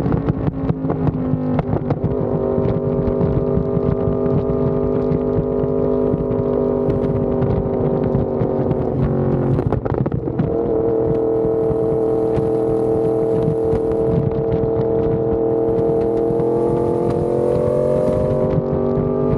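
Yamaha R1M's crossplane inline-four engine through an SC Project exhaust, ridden at a steady engine speed. The pitch breaks and drops briefly a little before halfway, the way it does at a gear change, and rises gently near the end.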